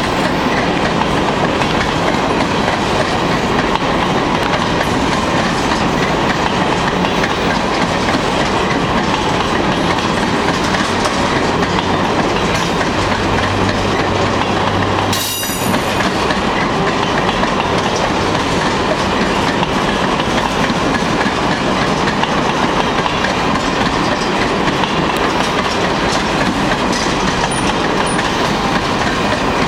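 Freight train of covered hopper cars rolling past close by, a loud, steady rumble and clatter of steel wheels on the rails that dips briefly about halfway through.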